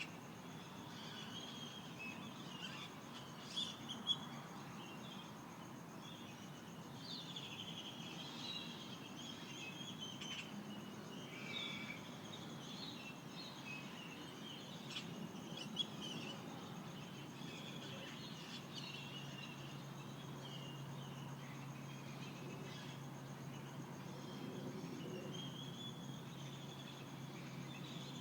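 Mojave Desert dawn chorus: many birds giving short chirps and warbled calls, overlapping and continuous, over a faint steady high drone. A low steady hum joins about two-thirds of the way through.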